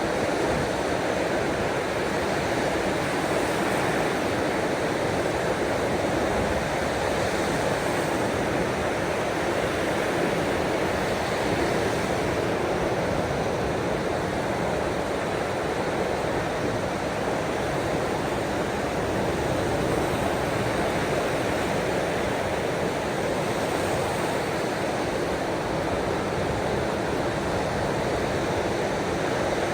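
Steady rushing water noise of ocean waves and rain, even in level with no distinct breaking swells.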